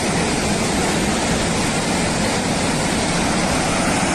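Floodwater rushing down a mountainside after a reservoir burst, a steady loud rush of water.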